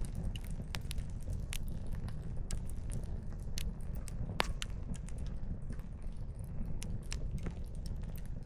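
Wood fire crackling: irregular sharp pops and snaps of burning firewood over a steady low rumble, with one louder pop about four and a half seconds in.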